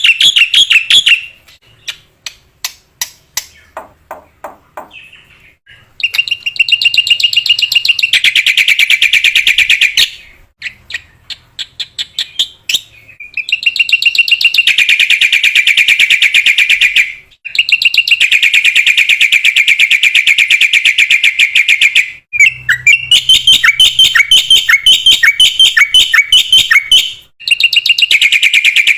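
Black-winged myna (jalak putih) singing energetically: long runs of rapid, repeated chattering notes, each run lasting several seconds, broken by short gaps with scattered sharp clicks.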